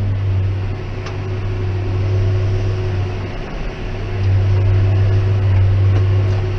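John Deere 6190R tractor running, heard from inside the cab as a steady low drone with a faint steady hum above it. The drone eases off a little about three seconds in and comes back up a second later.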